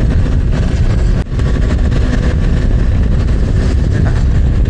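Yamaha MT-09 motorcycle on the move, heard from the rider's helmet: a steady loud rumble of engine, wind and road noise, with a brief dip about a second in.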